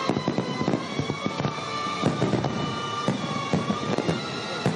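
Fireworks salute: a quick run of sharp bangs and crackles, with music playing underneath.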